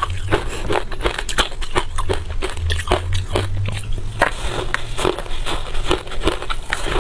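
Close-up crunching of freezer frost being bitten and chewed: dense, rapid, irregular crunches with no pause.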